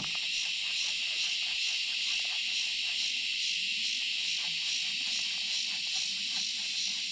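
Steady chorus of summer insects: a dense, even, high-pitched buzzing drone, with faint irregular ticks beneath it.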